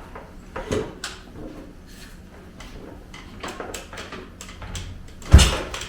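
Small clicks and knocks, then one heavy low thump about five seconds in: the kickstarter of a Honda CT70's swapped-in 212cc engine stomped while the bike is still in gear, and the engine does not start.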